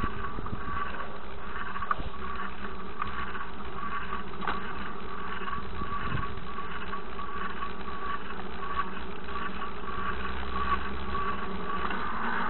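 Car engine running at a low, steady pace, a constant hum with a steady high whine over it.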